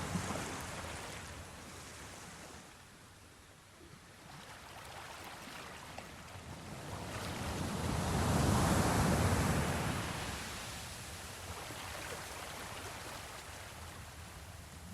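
Sea waves washing, a steady rush that fades, then swells to a loud surge about halfway through and eases off again.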